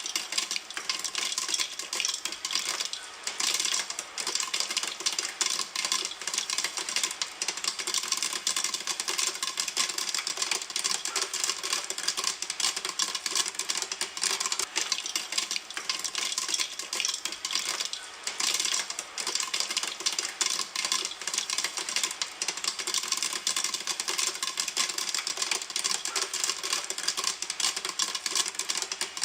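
Popcorn popping in a pan: a dense, steady stream of rapid pops.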